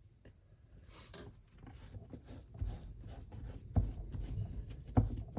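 Quiet rubbing and handling of craft supplies on a work surface, with two sharp knocks about four and five seconds in.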